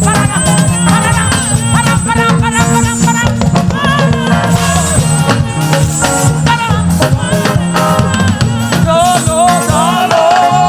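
Live upbeat gospel praise music: a band with drums, bass and shaker-like percussion playing a fast dance beat, with a voice singing over it.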